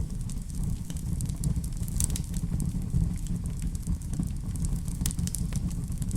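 Wood fire burning in a fireplace: a steady low rumble with irregular sharp crackles and pops, a burst of louder pops about two seconds in and again about five seconds in.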